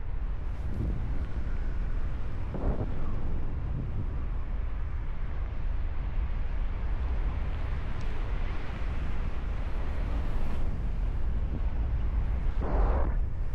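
Strong wind rushing over the microphone of a paraglider pilot's camera in flight, a steady low rumble with two brief louder bursts, one early on and one near the end.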